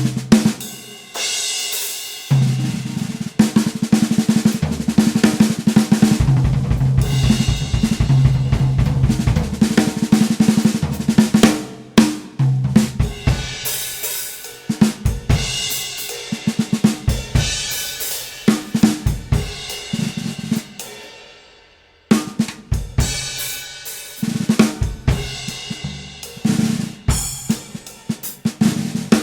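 Drum kit being played, led by the snare drum: quick snare strokes and fast rolls, with bass drum and cymbals. It breaks off briefly about 22 seconds in, then starts again.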